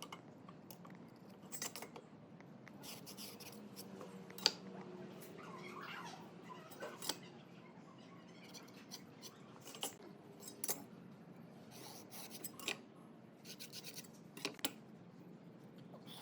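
Scattered light clicks, taps and scraping, like tools and pieces of wood being handled, over a faint low hum; the sharpest tap comes about four and a half seconds in.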